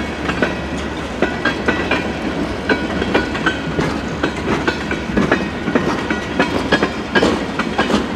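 Freight cars of a mixed freight train rolling past close by: steady rumble of steel wheels, with a rapid, uneven clickety-clack over the rail joints and occasional short metallic squeaks.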